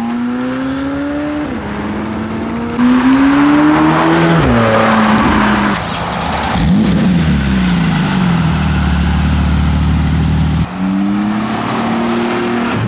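High-performance car engines accelerating hard, the pitch climbing and then dropping at each upshift, with a louder stretch from about three seconds in. The sound jumps abruptly twice, and near the end another engine pulls up through the revs.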